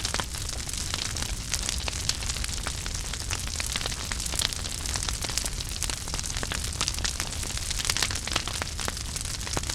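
Wood fire burning in a fireplace: a steady low rumble and hiss with constant crackles and small pops of the burning wood.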